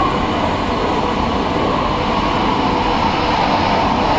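Steady, even train noise with a few faint steady hums, no distinct clicks or knocks.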